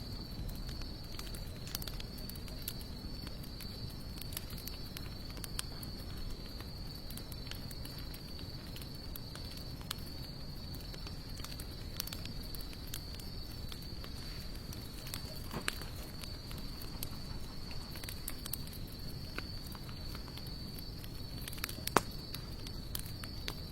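Wood fire of sawtooth oak and mixed hardwood logs crackling with scattered small pops and one sharp, louder pop near the end, over a steady high insect trill.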